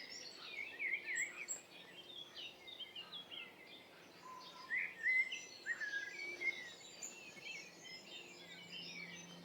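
Several small songbirds singing outdoors, a busy mix of short chirps, trills and warbling phrases, over a faint steady background hum.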